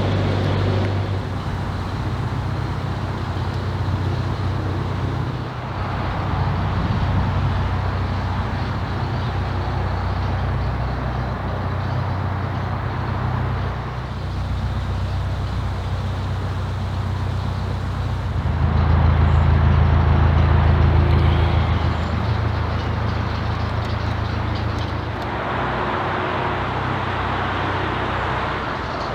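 Narrowboat engine running steadily under way, with a rushing noise of wind and water over it. Nearly two-thirds of the way through, the engine grows louder for about three seconds, then settles back.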